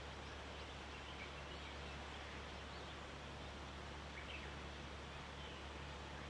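A few faint, short bird chirps from distant small birds, heard over a steady low hum and a soft even background hiss.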